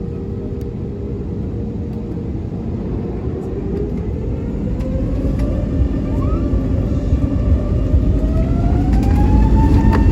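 Airbus A320neo's CFM LEAP-1A turbofan engines spooling up over a deep rumble. The engine whine climbs steadily in pitch from about halfway through and grows louder, as the engines come up to higher thrust.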